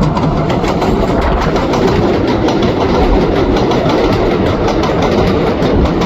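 New York City Subway 7 train of R188 cars running on the steel elevated Flushing Line, its wheels clicking rapidly over rail joints above a steady rumble and hum.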